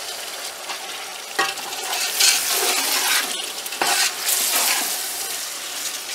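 Chopped tomatoes and ground spices sizzling in hot oil in a metal pot while a slotted metal spatula stirs and scrapes them. The sizzle swells in louder bursts in the middle as the mixture is turned, with a few light knocks of the spatula against the pot.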